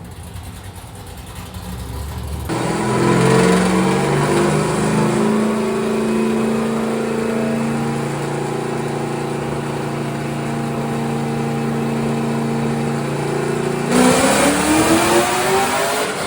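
Drift car's freshly built race engine running: revs dropping and settling to a steady fast idle, then revving up again near the end. The sound changes abruptly about two and a half seconds in and again near the end.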